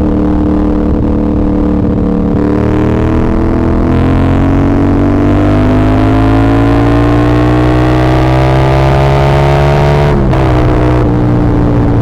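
CF Moto 450SR-S parallel-twin engine from the rider's seat: it runs steadily, then the revs climb slowly for about eight seconds. About ten seconds in the pitch drops sharply as the throttle closes for an upshift, and the engine then runs on at lower revs, easing slightly.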